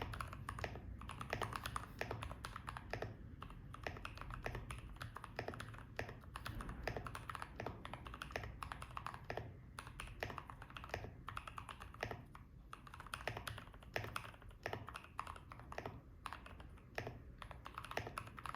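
Continuous typing on a Tofu65 mechanical keyboard with an acrylic case, brass plate and lubed, filmed AEBoards Naevy linear switches under Cherry-profile keycaps. It is a fast, steady stream of keystrokes with short pauses.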